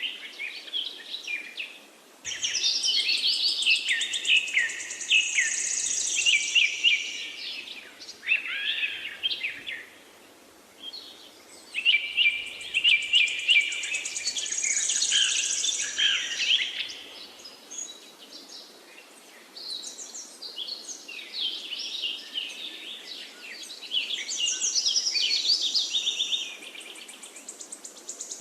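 Forest songbirds singing: high, quick chirping and trilling phrases come in bouts of several seconds. The bouts are broken by quieter gaps about ten seconds in and again around eighteen seconds.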